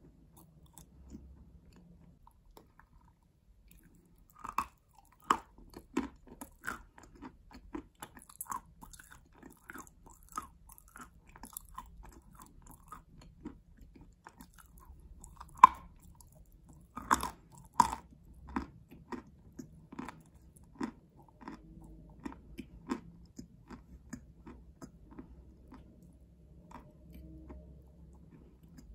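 Close-up chewing of a chunk of chalk, with irregular crisp crunches. It is quiet for the first few seconds, the crunches start about four seconds in, the loudest come a little past halfway, and they thin out near the end.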